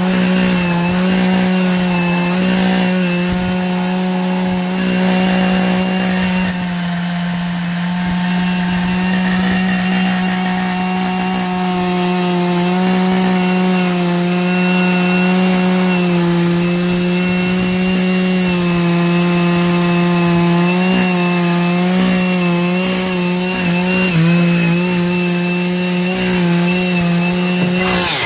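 Large Stihl two-stroke chainsaw running at full throttle and cutting through a big oak log. The engine note is steady and high, and its pitch dips slightly now and then as the chain takes load.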